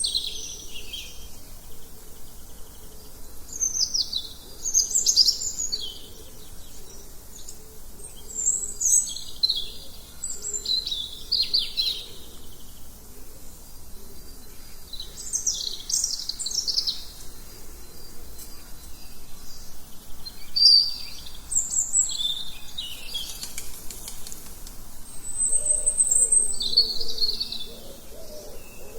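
Songbirds chirping and singing, one short high phrase after another with brief gaps, over a faint steady background hiss.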